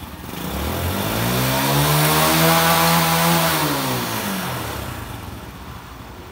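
A motor vehicle's engine passing close by. It swells in loudness and pitch, peaks about midway, then drops in pitch and fades as it moves away.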